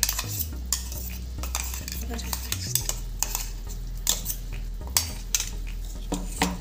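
A spoon clinking and scraping against a non-stick frying pan in irregular taps as onion paste is added to hot oil, with a light sizzle underneath.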